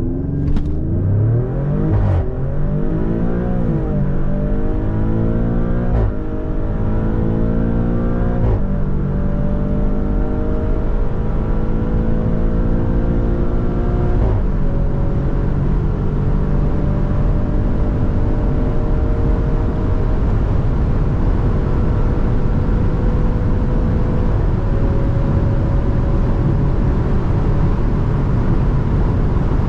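Maserati Grecale Trofeo's twin-turbo V6 under hard acceleration through the gears. The engine note climbs and drops back at each upshift: quick shifts about 2, 4, 6 and 8.5 seconds in, then longer, slower pulls with shifts near 14 and 24 seconds. Steady road and wind noise runs underneath.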